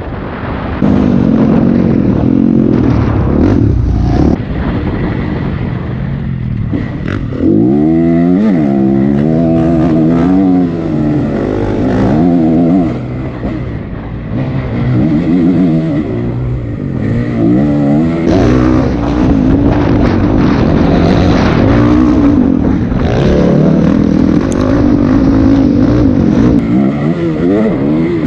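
Honda CRF 250 dirt bike's four-stroke single-cylinder engine revving hard, pitch rising and falling again and again as the rider works the throttle and gears, with a few short lulls where the throttle is closed.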